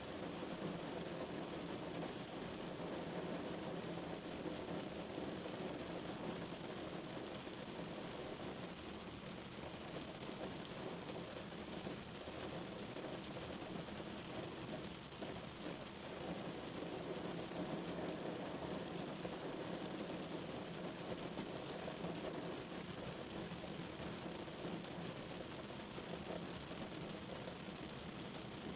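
Steady rain drumming on a car, a dense, even patter with no let-up.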